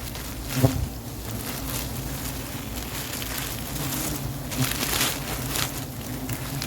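Dry leaves and brush crunching and crackling, with a sharp knock just over half a second in and a louder patch of crackling near the end, over a low steady hum.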